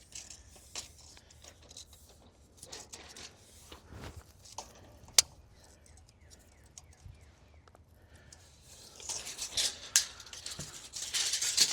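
Intermittent light clicks, taps and rustling of hand work with tools and lumber, with one sharper click about five seconds in and a stretch of louder scraping and rustling near the end.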